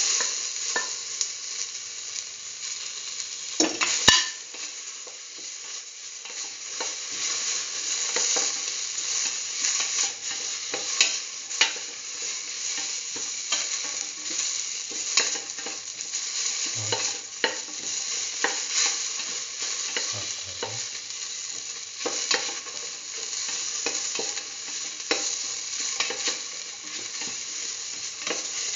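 Onion, shallots, garlic, dried red chillies and tomato sizzling in hot oil in a stainless steel pan, with a spatula scraping and clicking against the pan as they are stirred. A sharp knock about four seconds in is the loudest moment.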